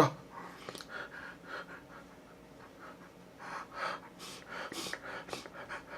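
A man breathing hard in short, faint breaths, a few each second from about three and a half seconds in.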